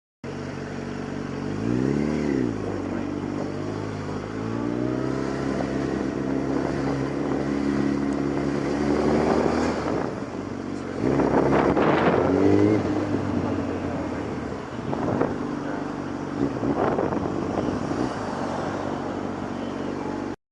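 Motorcycle engine running on the road: a quick rev about two seconds in, then pitch climbing as it accelerates, with a louder rush of wind and road noise about eleven to thirteen seconds in.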